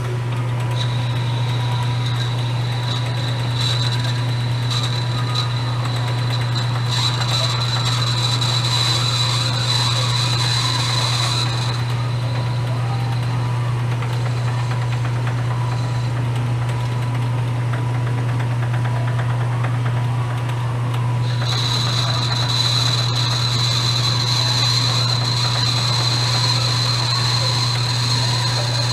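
Metal lathe running steadily while turning a brass bushing down in diameter. A high whine comes in twice, for about ten seconds near the start and again for the last seven or so, as the tool cuts the brass.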